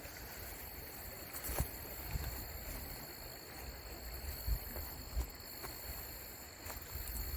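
Faint outdoor ambience: wind rumbling on the microphone with a few soft thumps, under a steady thin high-pitched whine.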